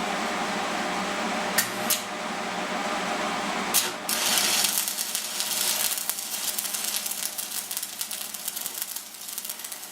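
Stick-welding arc from a Dayton transformer welder at about 115 amps burning a 6013 rod: a steady welder hum with a few sharp clicks, then about four seconds in the arc strikes and crackles continuously as the bead is laid.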